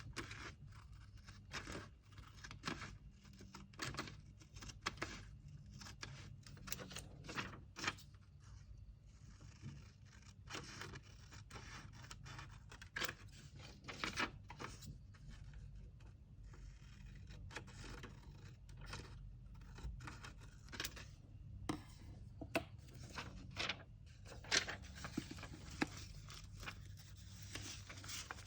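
Hands packing orders: paper and packing materials rustling and scraping, with many small irregular clicks and taps.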